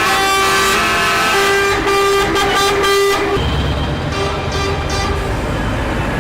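Several truck air horns sounding together in long, overlapping blasts for about three seconds. Then the horns fade back and the trucks' engines rumble, with fainter horn notes over them.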